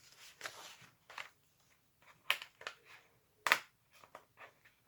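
Paper pages and flaps of a handmade junk journal being handled and turned: soft rustles and light paper snaps, with two sharper snaps a little over two seconds in and about a second later.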